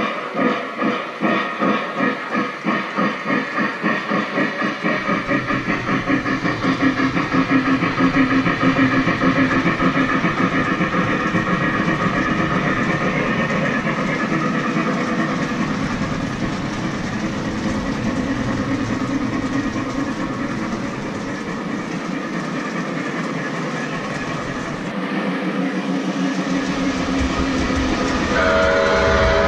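Model steam locomotive's onboard sound effects: chuffs that start slow and speed up until they blend into a steady running sound as the engine gathers speed. A pitched sound begins near the end.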